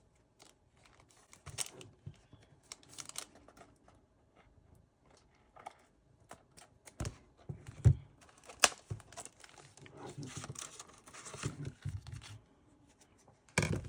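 Intermittent rustling, crinkling and tearing of packaging, with scattered sharp clicks and knocks, busiest in the latter half.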